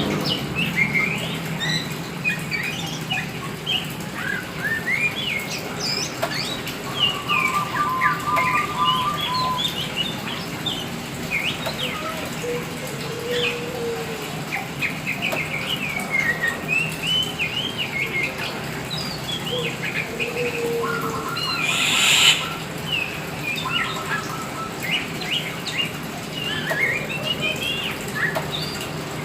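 Oriental magpie-robin of the all-black form (kacer hitam) singing in full voice: a steady stream of short varied whistles, slurred chirps and quick repeated-note runs. A short rustling burst about two-thirds of the way through is the loudest moment, and a steady low hum runs underneath.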